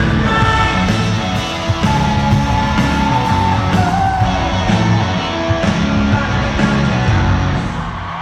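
Live pop-rock band music with a singer holding long sung notes over bass and drums keeping a steady beat.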